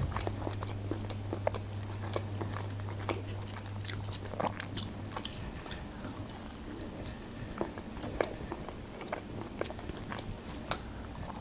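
Close-miked eating of McDonald's chicken nuggets: bites and chewing, with many short crisp crackles from the fried breading.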